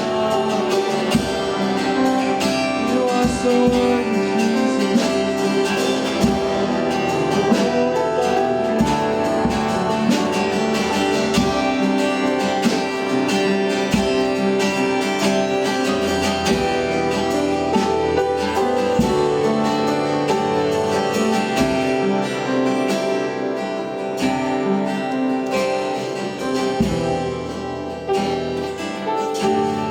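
Worship band music led by strummed acoustic guitar, with sustained instrumental chords and a steady beat.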